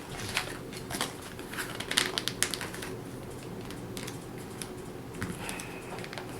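A sheet of paper being handled and folded, a quick run of crackling clicks and rustles in the first couple of seconds and a few more later.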